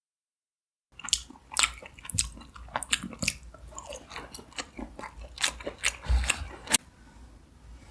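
Steamed mantis shrimp being shelled and eaten: shells crackling and crunching with chewing, in quick irregular clicks. It starts after about a second of dead silence.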